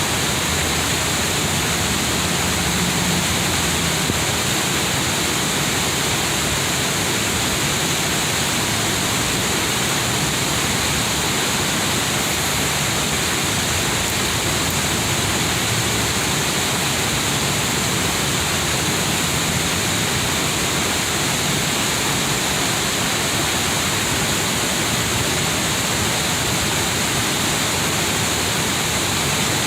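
Water rushing steadily over a river cascade, a loud, even roar of falling water.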